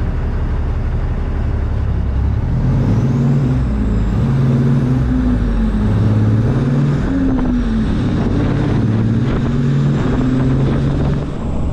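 Cummins ISX diesel engine of a Peterbilt 379 semi truck pulling away under load. The engine note climbs and drops again several times as it shifts up through the gears.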